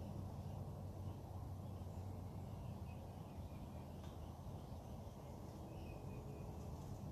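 Birds chirping faintly with short, scattered calls over a steady low background rumble.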